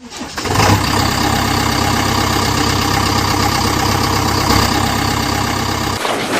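A motor vehicle engine idling steadily with a fine, even pulse, starting about half a second in and cutting off suddenly near the end.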